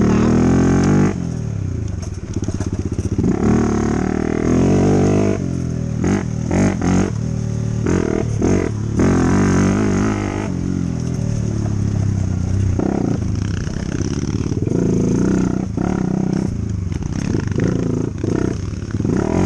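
Dirt bike engine running under a rider, its note rising and falling with the throttle, with short louder surges of revving and some clatter.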